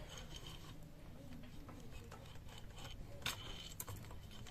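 A few faint, brief clicks over a low steady hum.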